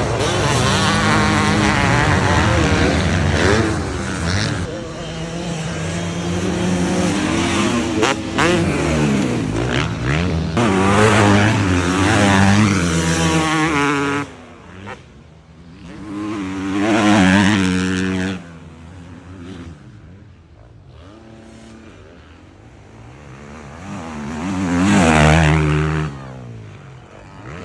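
Two-stroke motocross bikes racing, engines revving up and down through the gears. Loud and continuous at first, then quieter, with one bike passing close in the middle and another near the end.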